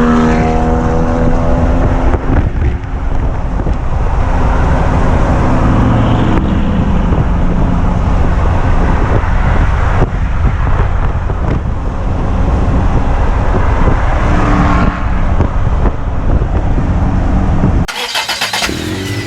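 Car engines running loudly, with the engine pitch rising and falling as they rev. Near the end the engine sound cuts off abruptly and electronic music with a beat starts.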